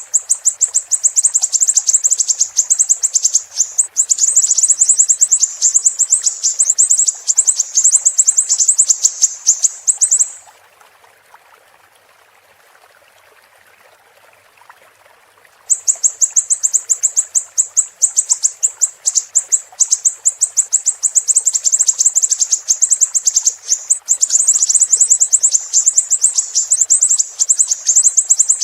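Siri-siri bird singing a fast, high-pitched run of sharp repeated notes, pausing for about five seconds around the middle, over a faint steady trickle of running water.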